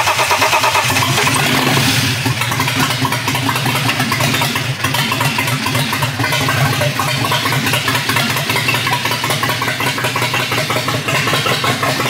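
BMW E36 M3 inline-six running at idle just after being started, a little louder for the first couple of seconds. It is running on oil emulsified with coolant water, being run to flush that mixture out.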